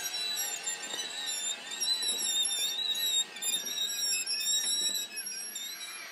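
A small electric motor whining steadily, its pitch wavering slightly, like a battery-powered toy train running along its track.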